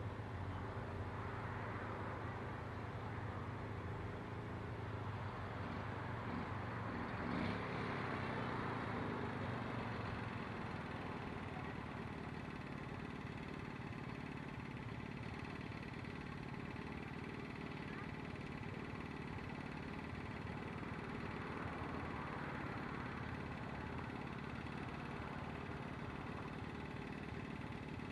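Vehicle engines idling with a steady hum, with one vehicle passing by about seven seconds in.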